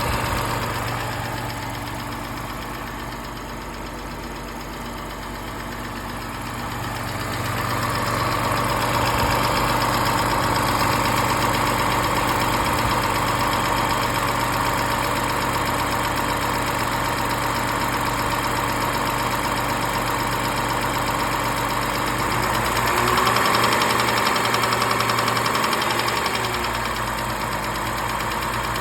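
Lexus IS350 F-Sport's 3.5-litre V6 running steadily at idle. About twenty-two seconds in, the engine speed rises a little, holds for a few seconds and drops back, the loudest moment.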